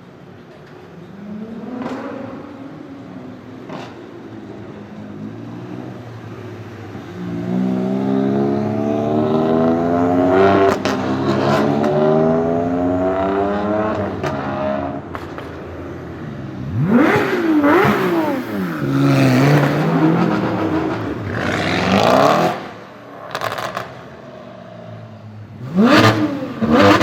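Porsche 991 GT3 flat-six engine through an iPE Innotech titanium exhaust. The engine note climbs steadily for several seconds, then comes a series of sharp throttle blips, each rising and falling quickly, about four times in the latter half.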